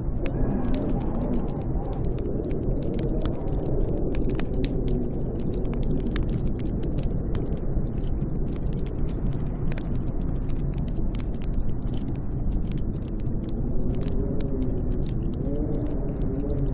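Snowstorm wind howling, a steady low rumble with wavering, rising and falling whistling tones, strongest near the start and again near the end. Faint scattered ticks sound over it.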